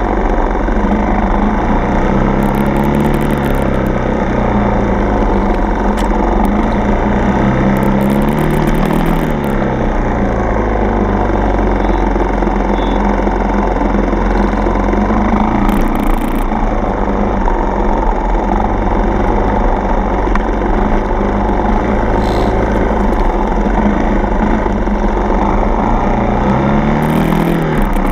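Single-cylinder four-stroke dirt bike engine running under way on a trail, its pitch rising and falling with the throttle, rising sharply a few seconds in, again about eight seconds in, and just before the end.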